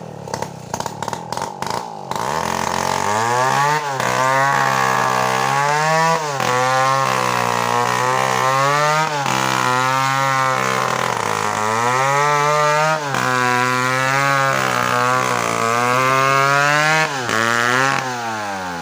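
Two-stroke chainsaw running with an uneven, pulsing idle, then opened to full throttle about two seconds in and held high while cutting through a coconut trunk. Its pitch sags and recovers several times as the chain loads up in the wood, and the engine drops back toward idle near the end.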